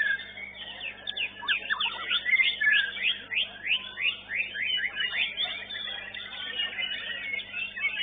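White-rumped shama (murai batu) singing in a songbird contest: a dense, rapid run of quick falling notes and whistles.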